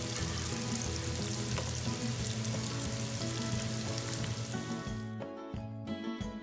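Sliced onions sizzling in oil in a frying pan, stirred with a spatula at first. The sizzle cuts off suddenly about five seconds in, leaving only background music.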